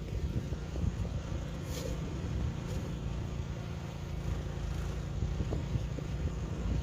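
A steady low engine rumble with an even hum, like a motor running, with a couple of faint clicks about two and three seconds in.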